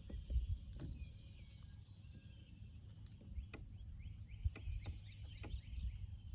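Insects shrilling in a steady high-pitched drone, with short chirps and a few scattered sharp clicks over a low rumble.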